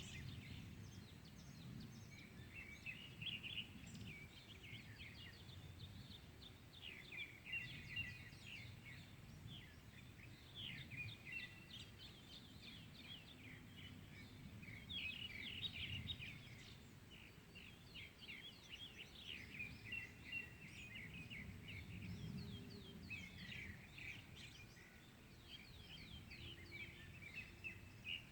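Dawn chorus of small songbirds: many quick chirps and twittering trills overlapping, with a faint low rumble underneath.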